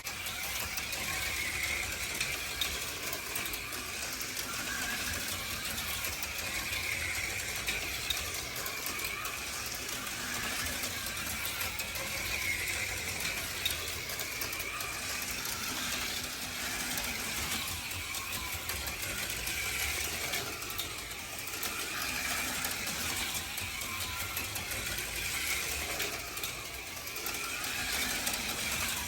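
HO-scale slot cars lapping the track: the small electric motors whine, rising and falling in pitch as they speed up and slow for the turns, over the rattle of the cars running in the slots, with a few short clicks.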